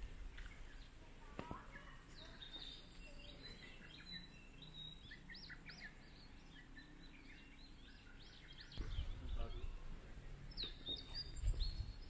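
Faint birdsong from several small birds: many short, quick chirps and whistled notes over quiet outdoor ambience. A low rumble comes in about nine seconds in and grows louder near the end.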